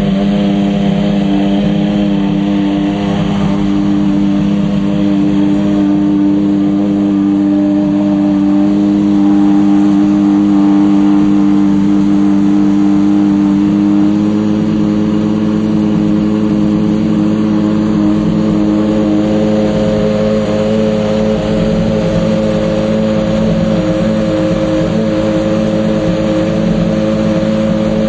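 Maserati race car's engine idling steadily, its pitch stepping up slightly about halfway through.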